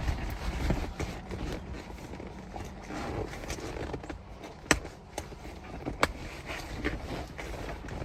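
Fabric rustling and scraping as a seat cover is pulled and worked onto a car seat, with two sharp clicks past the middle.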